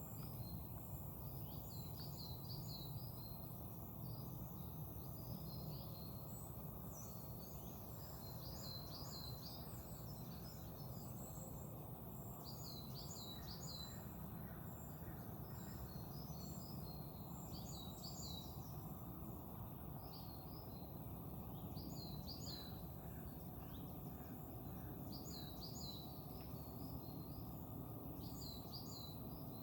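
Forest ambience: small birds chirping in short, high, repeated phrases, in clusters throughout, over a steady low background rumble.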